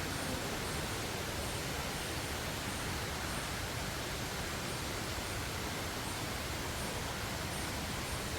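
Steady rushing background noise of an indoor rainforest enclosure, with faint high-pitched chirps repeating about twice a second.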